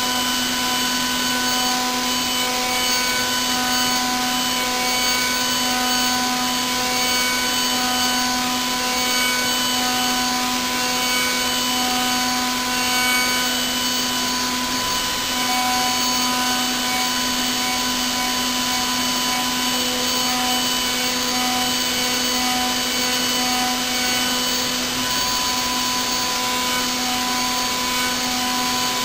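Milling machine cutting a 6 mm slot in brass at a 10 m/min feed: a steady pitched hum with a higher whine over a hiss of cutting noise, unchanging throughout.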